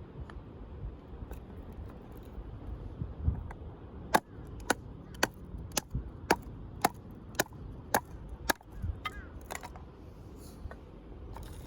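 Firewood being split by hand: a run of about ten sharp knocks, roughly two a second, starting about a third of the way in.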